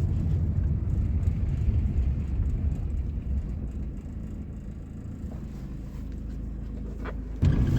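Low, steady road rumble inside the cabin of a moving 1998 Suzuki Baleno. It eases off through the middle and grows abruptly louder again near the end.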